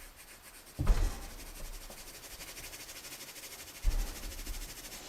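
Rapid back-and-forth rubbing on drawing paper, a fine scratchy hiss of repeated strokes from shading or lightening graphite, starting about a second in. There are dull knocks on the drawing surface at the start of the rubbing and again about four seconds in.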